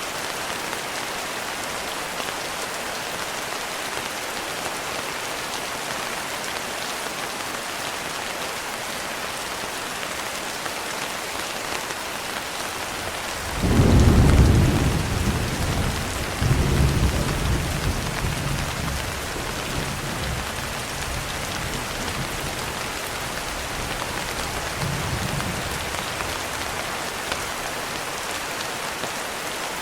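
Steady rain pattering on a window. About halfway through, a loud roll of thunder rumbles in, swells again a few seconds later and dies away, with a faint distant rumble a little after.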